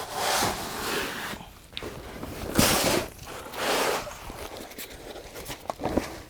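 Several scuffing, swishing noises, the loudest about two and a half seconds in: a floor mat being laid down and someone shifting about on it.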